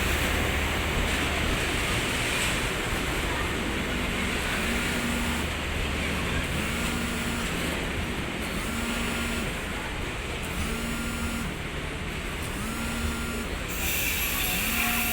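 Freight train's diesel locomotive idling at a brief station stop, with a steady low hum. From about four seconds in, a short rising tone repeats about once a second over the running noise.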